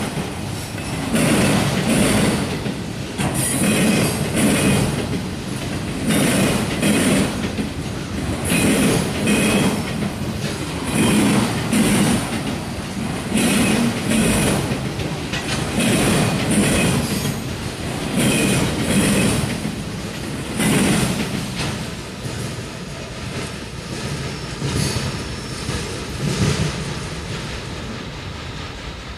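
Freight train of multilevel auto rack cars rolling past, its wheels clattering in a regular rhythm of loud swells about every second or so. About three quarters of the way through, the last cars pass and the sound drops to a fainter, steadier rumble as the train recedes.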